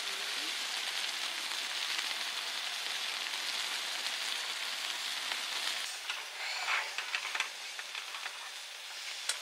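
Food frying in a pan: a steady sizzle that turns to irregular spitting and crackling about six seconds in.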